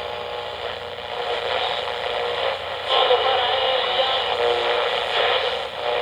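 Steam train sound effect running on an old radio broadcast recording, a steady noisy rumble with thin tones in it, growing louder about three seconds in.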